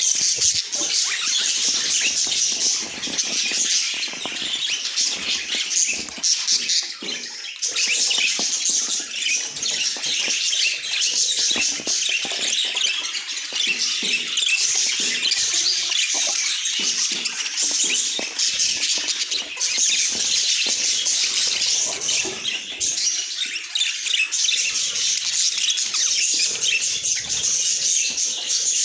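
Budgerigars chirping and chattering in a dense, unbroken, high-pitched stream.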